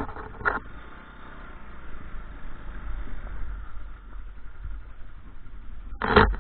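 A vehicle engine running steadily with a low rumble, with a short loud sound about half a second in and a louder one near the end.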